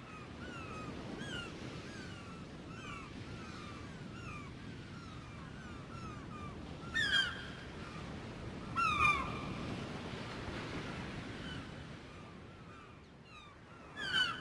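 Gulls calling: a run of short, falling calls repeated every half second or so, then a few louder, nearer calls about seven, nine and fourteen seconds in, over a low steady rumble.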